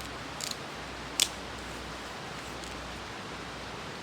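Two or three crisp, sharp cracks of damp wood being split with a knife, the loudest just after a second in, over a steady background hiss.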